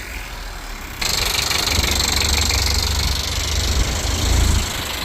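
Audi TT's 1.8-litre turbocharged four-cylinder (BAM) engine running with a knocking noise, rougher and louder from about a second in, after losing its oil; the owner thinks the engine has blown.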